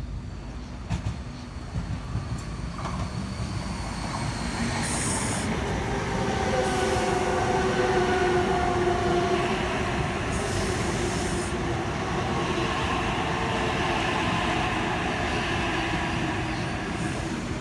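Sydney Trains Oscar (H-set) electric multiple unit passing through the platform without stopping: running noise that builds to its loudest a few seconds in, with sustained whining tones over the wheel noise and two brief hisses.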